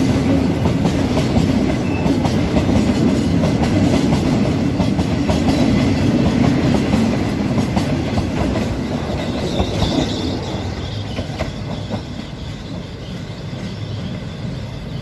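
Freight train's wagons rolling past and into a railway tunnel, wheels clicking over the rail joints with a heavy rumble. The sound fades gradually over the last few seconds as the train goes into the tunnel.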